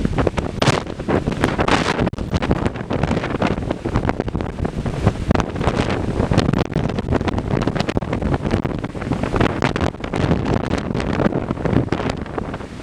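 Strong storm wind blowing hard across the microphone: a continuous rushing noise broken by rapid, irregular buffeting gusts.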